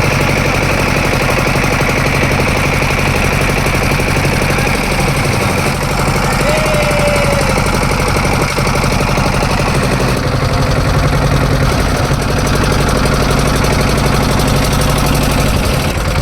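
Engine running steadily at a constant speed with a fast knocking beat, starting abruptly.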